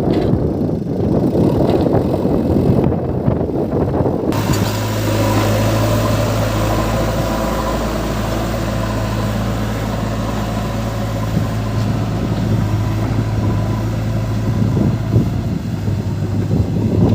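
Heavy diesel machinery running: a rough, noisy rumble with wind on the microphone, then after about four seconds a sudden switch to a steady diesel engine idle with a constant low hum.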